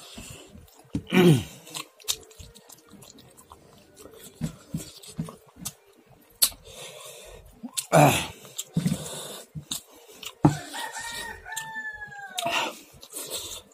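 Close mouth sounds of eating rice and dal by hand: wet chewing and lip-smacking clicks, with two louder sounds falling in pitch about a second in and about eight seconds in. Near the end a rooster crows once in the background, a long call that drops in pitch as it ends.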